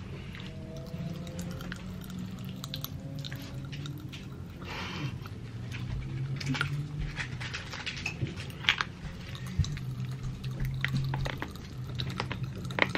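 Close, wet chewing and slurping of a jelly straw candy, with scattered soft clicks over a low steady hum.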